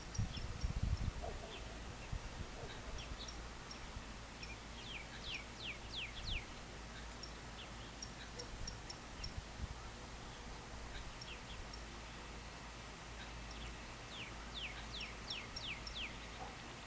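Birds chirping and calling outdoors over a steady background hiss, with two runs of five or six quick downward-slurred whistled notes, one about five seconds in and one near the end. A few low thumps sound at the very start.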